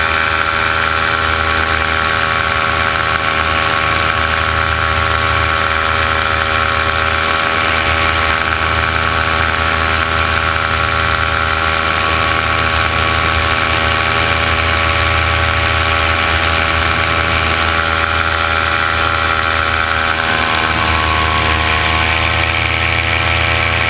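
Multirotor drone motors and propellers humming steadily, with a slight dip and shift in pitch about 21 seconds in.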